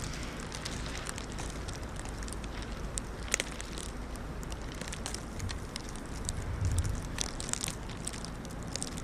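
Irregular crackles and ticks of plastic sheeting, from the Ziploc bag over the camera and the trash bag being worn, over a low, steady wind rumble that swells briefly about two-thirds of the way through.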